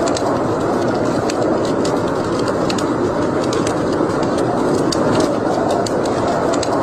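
Wood fire burning in a fireplace: many small, irregular crackles and pops over a steady rushing noise.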